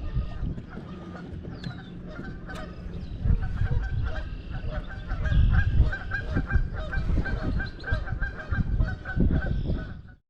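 Geese honking in a rapid series of short calls over a low rumble, the honking growing thicker about four seconds in; the sound cuts off abruptly near the end.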